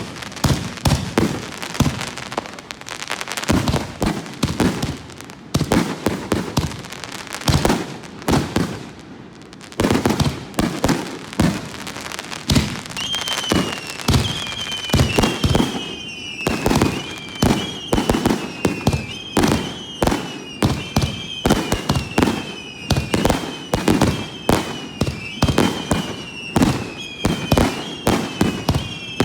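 Aerial fireworks shells launched and bursting at close range, a rapid, continuous series of sharp bangs. From about halfway, whistling tones that slide down in pitch repeat about once a second over the bangs.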